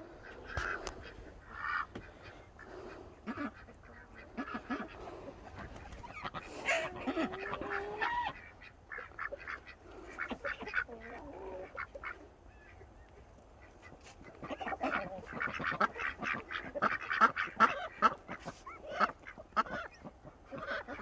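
Domestic geese and ducks calling, a mix of honks and quacks, with the calls coming thickest about two-thirds of the way through.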